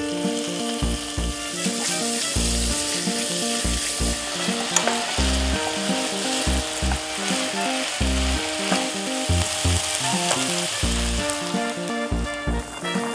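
Diced pork with kabocha squash, potato and carrot sizzling in butter in a pot while being stirred with a spatula, a dense steady frying hiss with occasional clicks of the spatula.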